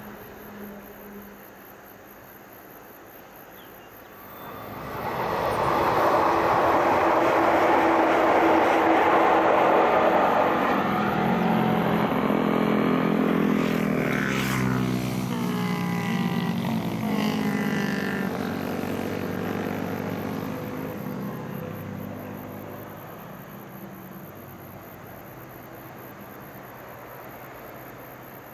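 Local electric multiple-unit train passing close by, its wheels and rail noise swelling suddenly about four seconds in. As it pulls away its motor hum falls in pitch and fades.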